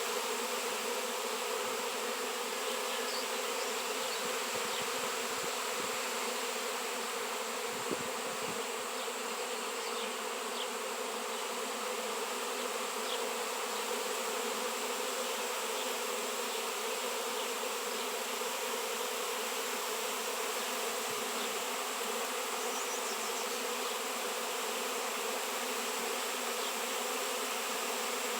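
Swarm of honey bees buzzing, a steady dense hum that holds throughout.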